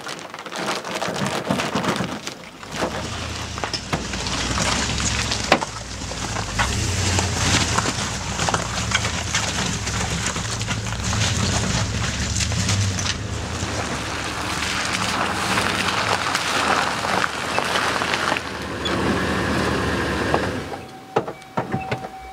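Wind rush and a tarp crackling and flapping over a pickup truck's load as the truck drives at speed, over a steady low road rumble. The noise builds about two seconds in and falls away sharply near the end.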